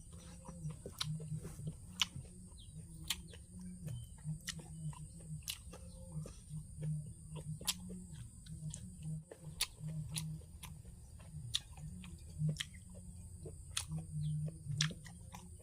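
Someone chewing food, with irregular sharp clicks and crunches about a second apart over a steady low hum.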